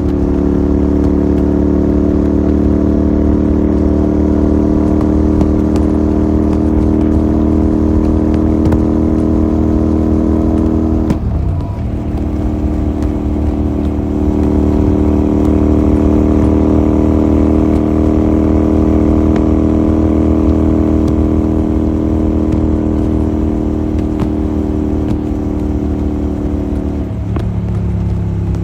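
Royal Enfield Continental GT 650's parallel-twin engine through a Red Rooster aftermarket exhaust, running at steady revs while riding. About eleven seconds in the note dips briefly, as in a gear change, then carries on, and near the end the revs drop.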